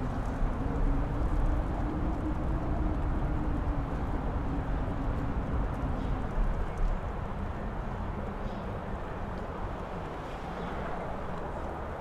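Strong mountain wind gusting, with a low rumble and a faint howling tone that rises and falls in pitch. The gusts peak about a second in and again past the middle, then ease off.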